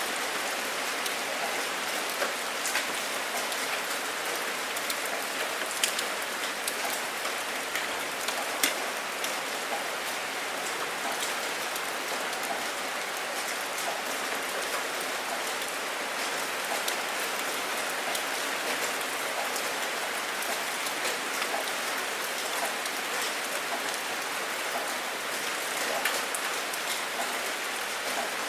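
Steady rain falling, with the sharp ticks of single drops landing close by, a few louder ones scattered through.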